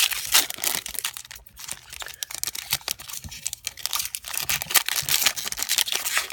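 Foil wrapper of a Pokémon booster pack crinkling and crackling as it is torn open and handled: a dense, irregular run of crackles with louder spurts.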